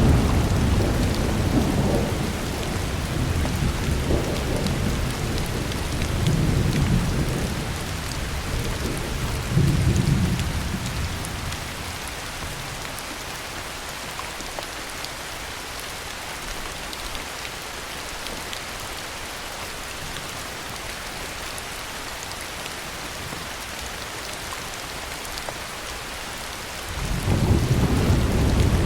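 Heavy rain falling steadily, with thunder rumbling and dying away over the first ten seconds or so, then a fresh, louder roll of thunder starting near the end.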